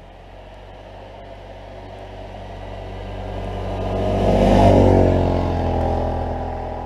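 Motor vehicle engine growing steadily louder to a peak a little past halfway, its pitch shifting, then easing off.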